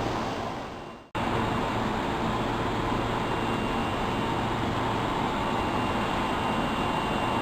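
Steady running noise of an Osaka Metro Tanimachi Line subway train, with a low hum and a faint high steady tone. It fades out about a second in and cuts back in abruptly, then runs on steadily.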